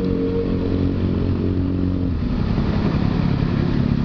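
Motorcycle engine running steadily while riding, its note dropping lower about two seconds in as the revs fall.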